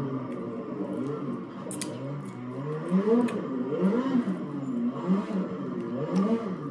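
Chewing and mouth clicks from someone eating chicken adobo by hand, a few short sharp clicks scattered through. Underneath, louder, run repeated rising-and-falling tones, about two a second, from an unidentified background source.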